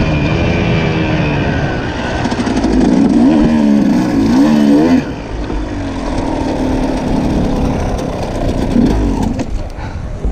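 KTM dirt bike engine under riding load, the revs rising and falling several times as the throttle is worked, then dropping off sharply about five seconds in before running steadier, with another brief rev near the end. Wind and riding noise run underneath.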